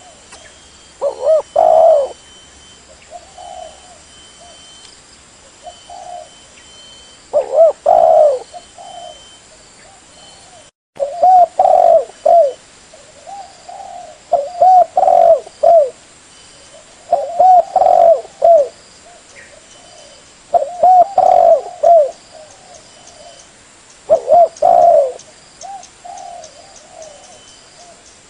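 Spotted dove (tekukur) cooing: low, hollow multi-note coo phrases repeated every two to four seconds, with short quiet gaps between phrases.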